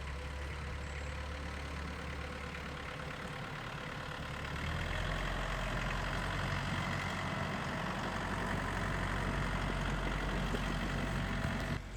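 Snowblower engine running steadily, growing louder about five seconds in and stopping abruptly near the end.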